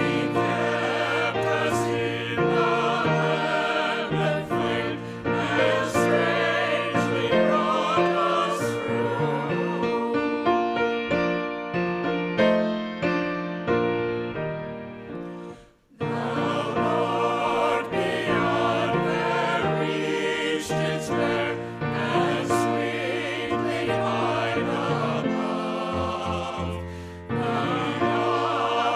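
Voices singing a hymn with instrumental accompaniment. About halfway through, the music briefly dies away and then resumes abruptly.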